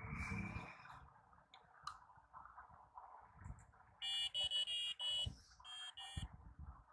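Arduino tone() output through a small speaker: a run of six short, harsh square-wave beeps at much the same pitch, starting about four seconds in. A soft rustle comes near the start.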